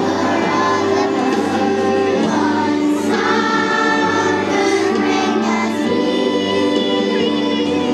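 Children's choir singing together over a musical accompaniment, with sustained held notes.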